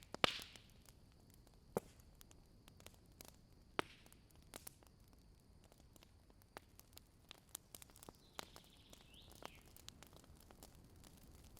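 Wood campfire crackling, with irregular sharp pops of burning wood, the loudest right at the start and others about two and four seconds in, and a faint hiss near the end.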